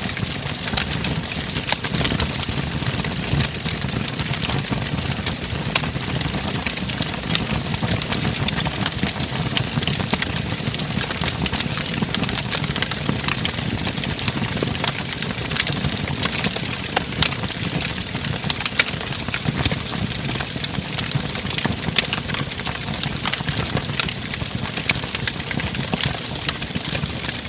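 Wood fire in a fireplace crackling and popping: many quick, irregular snaps over a steady low rumble of the flames.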